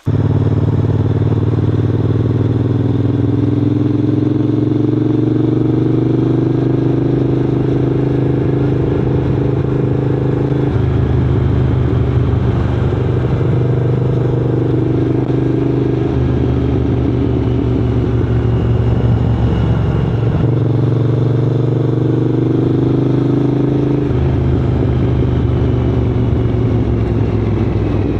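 Triumph Scrambler 900's parallel-twin engine running under way, loud and steady, its pitch creeping up and then dropping abruptly a few times as the bike changes gear.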